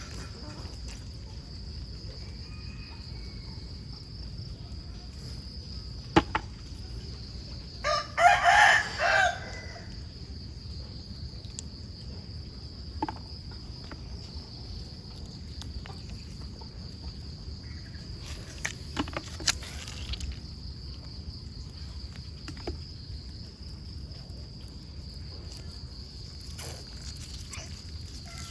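A rooster crows once, about eight seconds in, over a steady high-pitched insect drone. A few sharp clicks come and go.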